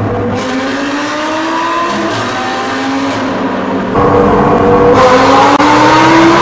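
Lamborghini Gallardo LP560-4's V10 with an Armytrix exhaust accelerating hard in a tunnel, heard from the cabin. Its pitch rises, breaks at a gear change about two seconds in, then climbs again louder from about four seconds in.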